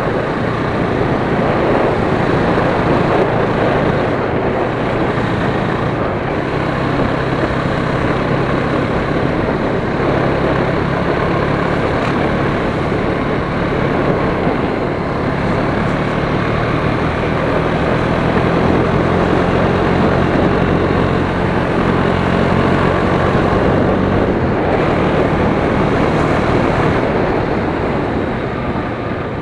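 KTM Duke 390's single-cylinder engine and exhaust running at a fairly steady road speed under heavy wind noise on the microphone, dropping slightly near the end.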